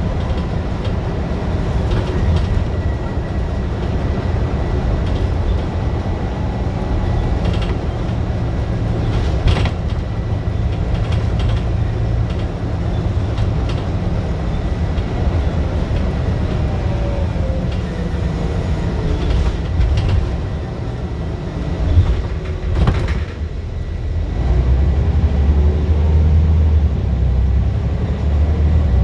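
Scania bus engine running hard under load, a loud steady low drone with knocks and rattles over it. A sharp knock comes a little past the two-thirds mark, the engine note drops briefly, then it pulls harder and louder toward the end.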